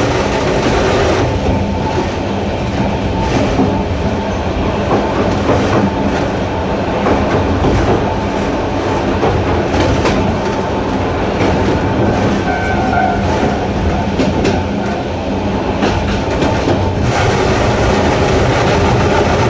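Narrow-gauge electric train running steadily, its nose-suspended traction motors giving a low hum under the running noise. Wheels click over rail joints throughout, and a brief higher squeal comes about twelve seconds in.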